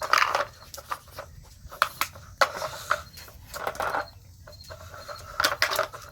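A dog nosing and pawing at a plastic treat puzzle, its pieces clicking, knocking and scraping in quick irregular strokes as it tries to get at the treats.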